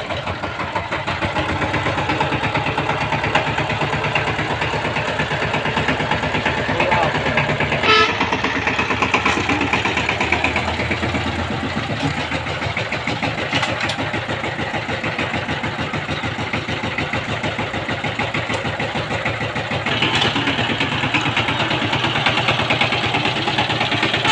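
Power tiller engine running with a steady, rapid chugging beat. A sharp click comes about eight seconds in, and the engine grows louder about twenty seconds in.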